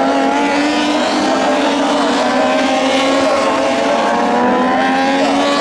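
Several Moto2 racing motorcycles' Triumph 765 cc three-cylinder engines running at high revs together, their pitches overlapping and drifting slightly up and down.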